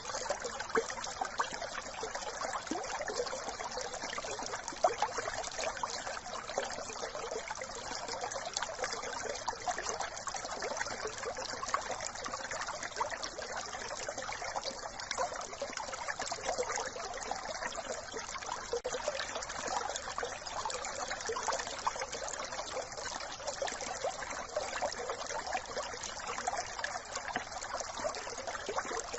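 A small brook trickling and burbling steadily over stones, with a constant patter of little splashes.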